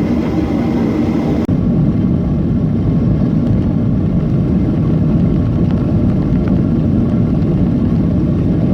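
Steady rumble of engines and rushing air inside a Boeing 737 airliner cabin in flight, with a brief break about one and a half seconds in.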